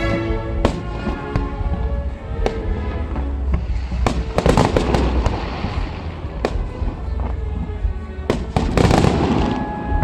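Fireworks display: repeated sharp bangs of bursting shells, with dense crackling bursts about four seconds in and again near the end. Music plays steadily underneath.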